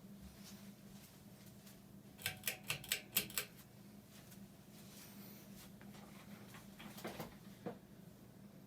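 A 2003 Hampton Bay Landmark ceiling fan running, its motor giving a faint steady hum. A quick run of about seven light clicks comes a little over two seconds in, and a few softer clicks follow near the end.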